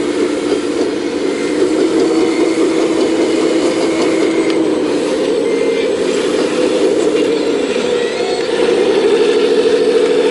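Full-size excavator's diesel engine running steadily under load while digging. About eight seconds in the engine note dips, then picks back up slightly louder.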